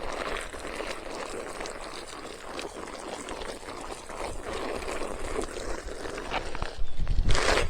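Water pouring and splashing as plants are watered. A gust of wind buffets the microphone near the end.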